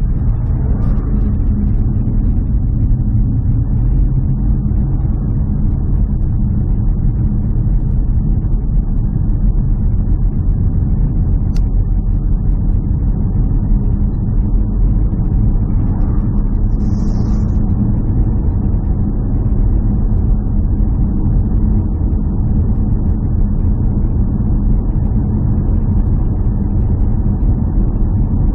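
A steady low engine drone, as of a motor vehicle running at an even speed, with a brief click about twelve seconds in.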